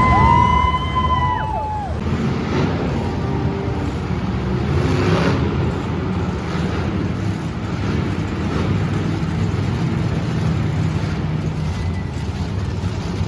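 Monster truck engines running in an arena, a steady low rumble under crowd noise. In the first two seconds a pitched tone slides up, holds and falls away.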